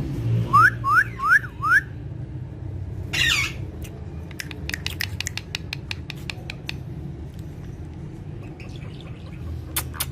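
Parrot calling: four quick rising whistled notes in a row, then a single harsh squawk about three seconds in, followed by scattered sharp clicks.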